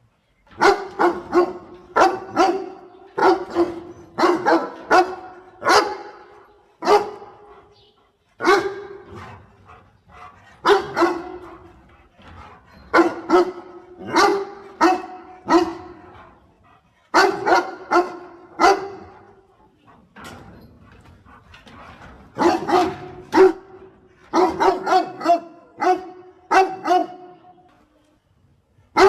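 A dog barking repeatedly, in quick runs of two to five barks separated by short pauses.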